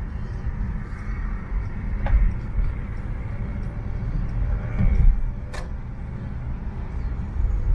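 Steady low road rumble of a car in motion, heard from inside the cabin, with a couple of sharp clicks about two and five and a half seconds in.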